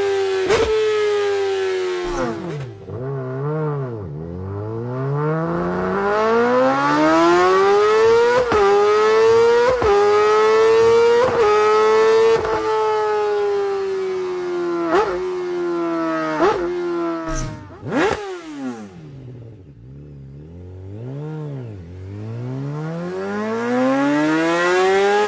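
Superbike engine revving hard through the gears: the pitch climbs, drops sharply at each of several quick upshifts and climbs again. It then falls away with a few blipped downshifts as the bike slows, and winds back up near the end.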